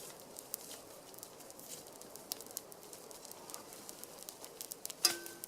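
Small wood campfire crackling, with scattered short pops and snaps over a low hiss. A sharper click comes about five seconds in.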